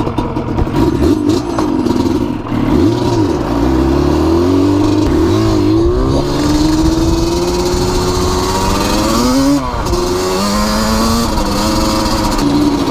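Motorcycle engine accelerating, its pitch climbing steadily, then dropping at a gear change about ten seconds in before climbing again.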